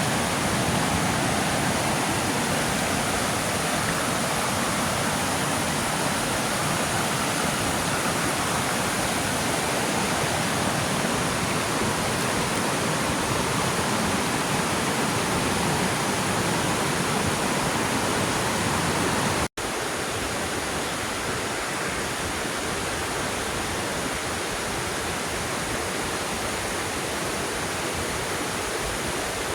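Waterfall rushing, a steady, even noise of falling water. About two-thirds of the way through it cuts out for an instant and comes back slightly quieter.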